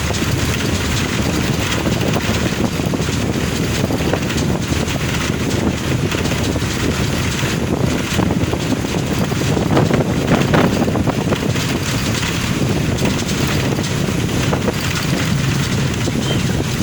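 Steady road noise of a car driving on a wet road in the rain: a continuous hiss of tyres and spray, swelling briefly about ten seconds in.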